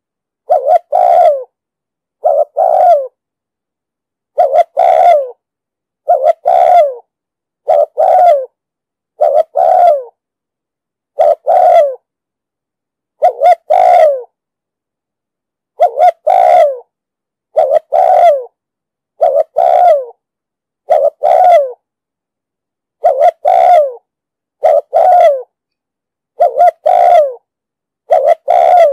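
Male spotted dove (chim cu gáy) giving its deep 'thúc gù' coo: short, loud two-part phrases repeated about every one and a half to two seconds, with a few longer pauses. It is the kind of recording played to train captive doves and lure wild doves to a trap.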